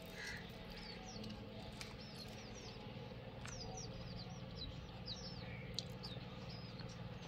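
Small birds chirping, many short high chirps repeating over a low steady hum.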